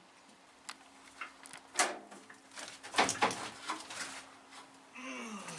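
Scattered knocks and clanks of metal car body parts being handled and set in place, the loudest about three seconds in, over a faint steady hum.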